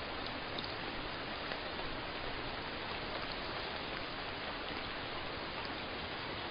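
Steady rainfall, an even hiss of rain with a few faint droplet ticks scattered through it.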